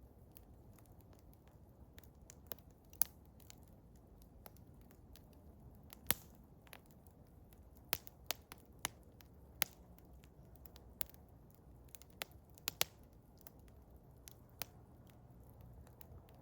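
Eastern hemlock wood fire crackling, with about fifteen sharp pops at irregular intervals over a faint, steady low rumble.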